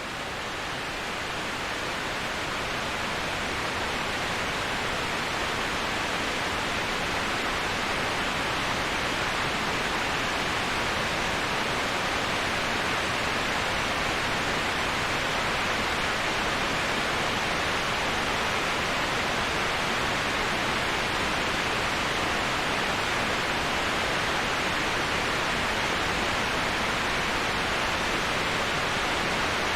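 Waterfall ambience: a steady, even rush of falling water with no separate splashes, strongest in the upper-middle range, swelling a little over the first few seconds and then holding level.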